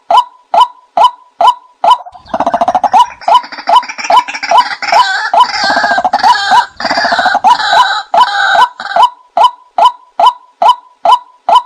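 A bird call repeated at a very even pace, about two and a half short notes a second, joined from about two seconds in until about nine seconds by a burst of harsh fowl-like squawking and clucking.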